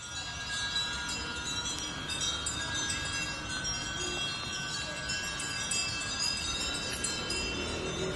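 Wind chimes ringing: many overlapping tones at different pitches that keep sounding.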